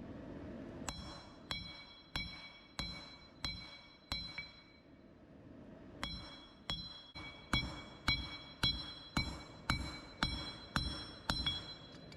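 Hand hammer striking a hot Damascus steel billet on an anvil, about six blows, a short pause, then about ten more at a steady pace of nearly two a second. Each blow leaves a clear metallic ring from the anvil, as the billet is drawn thinner and curved for a knife blade.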